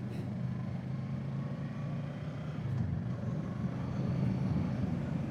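Kawasaki Z650's parallel-twin engine running steadily while the motorcycle is under way, with a little wind noise. It gets slightly louder about four seconds in.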